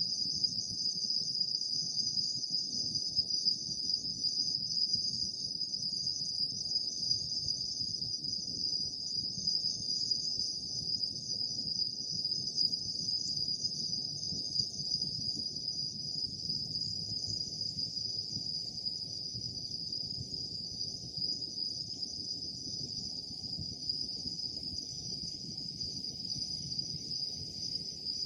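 Autumn night insects chirping in a steady, unbroken high-pitched chorus, over a soft low rumble.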